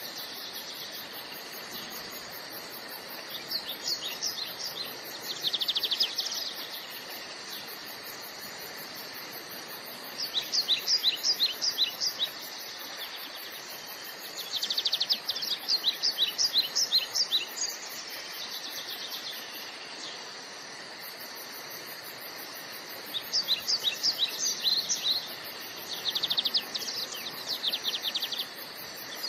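A songbird singing in repeated bursts of rapid, high chirping notes, a new burst every few seconds, over a steady background hiss.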